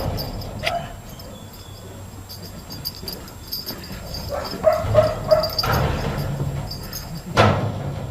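An animal giving three short, high yips in quick succession about five seconds in.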